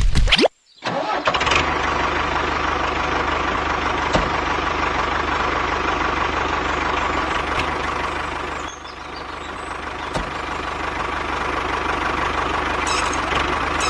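Mini tractor's motor running steadily with a thin steady whine. It cuts in just under a second in and dips briefly about nine seconds in.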